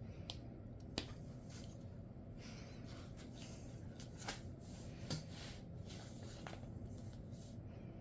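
Sharpie Creative Markers drawing on paper: short, scratchy strokes come and go, with a few sharp clicks. The clicks fall about a second in and again around four and five seconds in.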